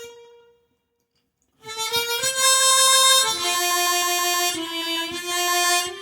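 Harmonica playing a slow melody: a held note fades away, there is about a second of silence, then the tune resumes with long held notes that change pitch every second or so.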